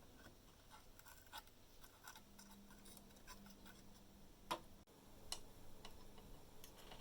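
Near silence broken by a few faint, scattered clicks and taps, with one sharper click about four and a half seconds in.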